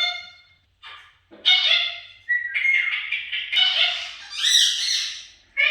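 Pet budgerigar chattering: a run of warbling, speech-like calls with a short break about a second in and another near the end.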